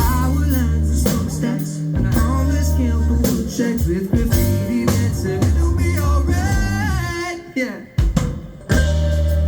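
A live band playing a song on stage with drums, bass and guitar. A little after seven seconds in the music drops away, then the full band comes back in together with a hit near the end.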